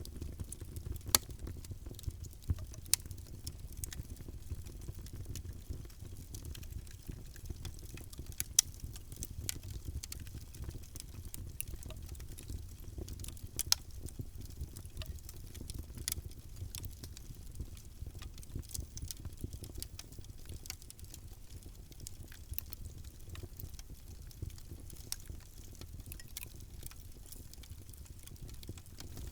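Wood fire in a fireplace crackling: irregular sharp pops and snaps over a low, steady rumble of the flames, with a few louder pops.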